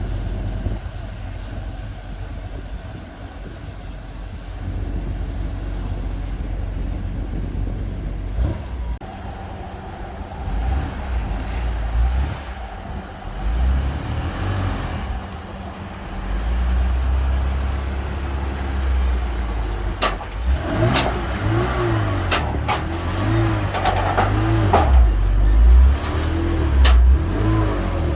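Race car engine running at low speed with repeated throttle blips, its pitch rising and falling, as the car is driven onto a car-carrier trailer. Several sharp metal clanks come in the second half.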